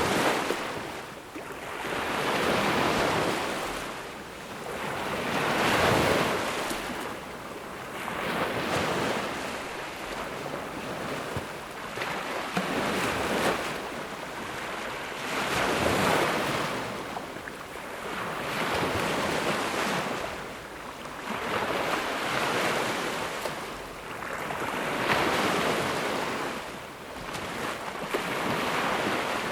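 Small ocean waves breaking and washing up a sandy beach, each wave rising and falling away every two to three seconds in a steady rhythm of surf.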